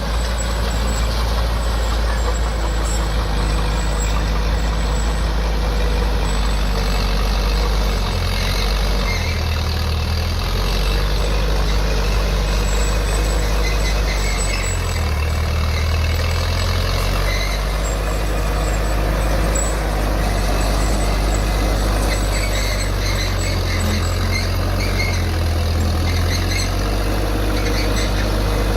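Diesel engine of heavy earthmoving machinery running steadily, its low note changing pitch and load a few times, about 8, 15 and 24 seconds in.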